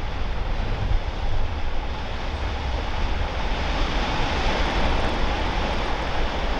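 Wind buffeting the microphone, an uneven low rumble, over a steady rushing hiss that swells a little past the middle.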